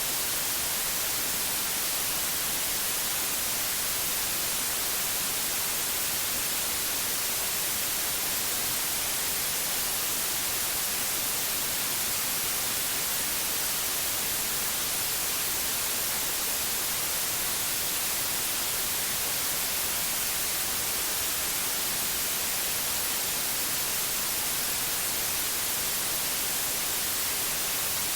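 Synthetic white noise: a steady, even hiss, brightest in the treble, with no change at all.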